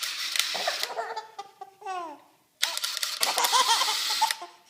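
Electric drill run in two short bursts, a baby girl laughing hysterically along with each; some of her laughs fall in pitch.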